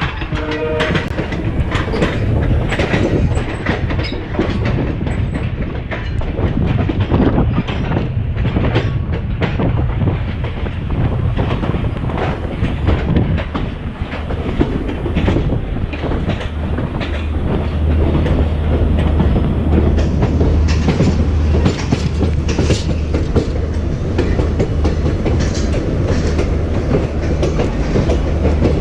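EMU electric suburban train running on the rails, with a steady rumble and wheels clattering over rail joints; a low hum grows stronger about two-thirds of the way through.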